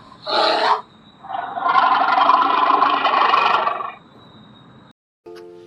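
An animal's vocal calls: a short, rough call about half a second in, then a long, harsh call lasting about two and a half seconds.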